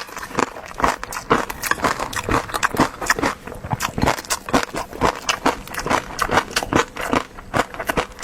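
Close-miked eating sounds: a person chewing food with wet, sticky mouth clicks and smacks, many a second at an irregular pace.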